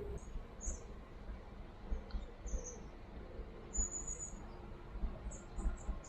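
Small birds chirping, with short high calls scattered through, over an uneven low rumble.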